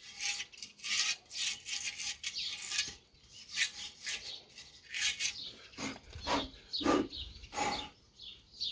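Rubbing and scraping as parts of a Pedrollo pump are handled during reassembly: a run of short scraping strokes, then a few heavier knocks and bumps about six seconds in.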